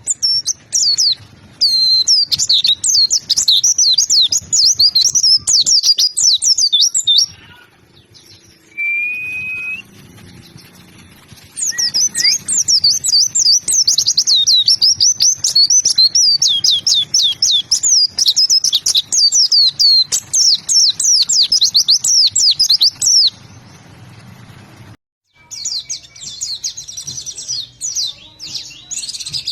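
A white-eye (pleci) singing loud, fast, high-pitched twittering song in long unbroken runs. One run comes early and a longer one through the middle, with a single short whistle in the pause between them. A denser burst of chatter begins near the end.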